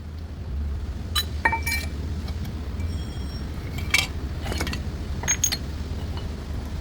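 Metal tools and parts clinking against one another, about seven sharp ringing strikes in uneven succession, over a steady low hum.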